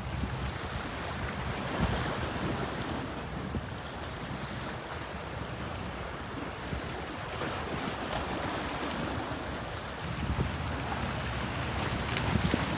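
Bosphorus sea waves washing steadily, with wind buffeting the microphone in a low rumble that strengthens again about ten seconds in.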